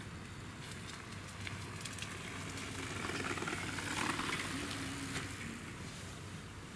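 Steady hiss of outdoor background noise over a low hum, swelling to its loudest about four seconds in and then fading.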